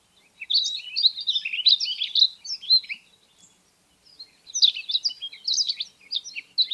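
Rustic bunting song from a field-guide recording: two phrases of quick, varied twittering warble, the second starting after a short pause about four and a half seconds in.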